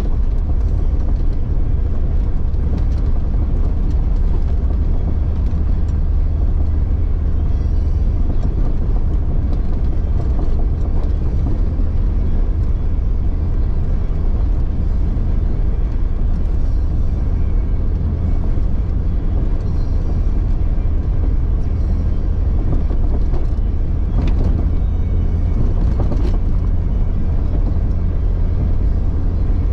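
1999 Jeep Cherokee XJ's engine running steadily while the vehicle drives on a trail: a constant low rumble, with a few light knocks near the end.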